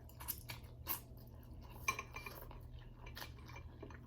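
Eating utensils clinking against a bowl of noodle soup: a few sharp clicks, the loudest about two seconds in with a brief ring, over soft eating sounds.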